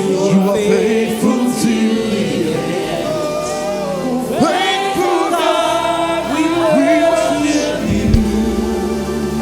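Gospel church choir singing a praise song over instrumental backing, with a strong new vocal phrase coming in about four and a half seconds in.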